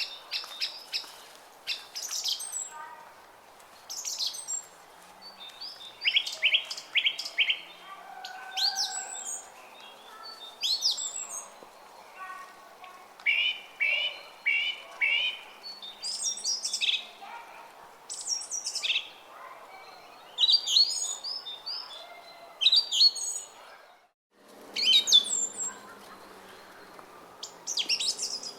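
Small songbirds chirping and singing, with many short, quick notes and rapid repeated series, over the faint steady trickle of a brook. About 24 seconds in the sound drops out for a moment and comes back with a slightly different, lower background.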